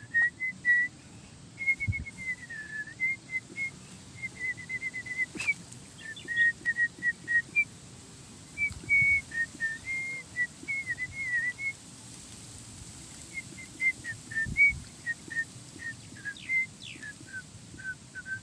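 A songbird singing: a long run of short, high, whistled notes stepping and sliding up and down in pitch, with a few brief pauses.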